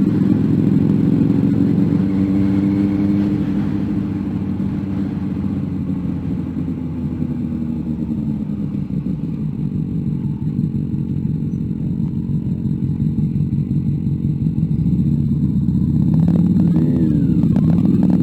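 Motorcycle engine running under way with road and wind noise. Its note rises and falls with the revs near the end.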